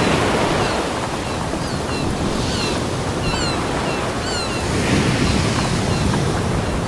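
Ocean surf washing on a beach, a steady rushing that swells again about five seconds in. A string of short, high, falling chirps sounds over it in the first two thirds.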